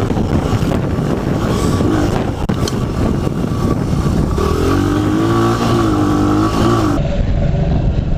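Small dirt bike engine running hard under throttle as the bike is ridden, its pitch rising and falling about halfway through.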